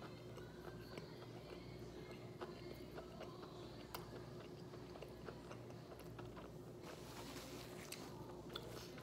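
A person chewing a mouthful of crispy fried chicken sandwich with the mouth closed, faint, with small scattered crunching clicks. A paper wrapper rustles briefly near the end.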